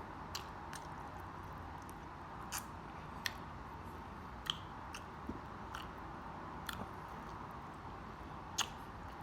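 Close-miked chewing and wet mouth smacks of someone eating tender barbecue ribs: scattered short clicks and smacks at an uneven pace over a steady low hiss.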